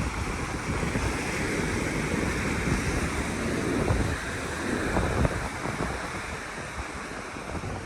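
Ocean surf washing onto the beach, with wind gusting on the microphone in an uneven low rumble.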